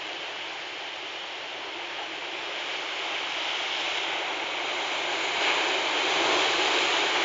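Big waves breaking against a rocky shore: a steady rush of surf that grows gradually louder.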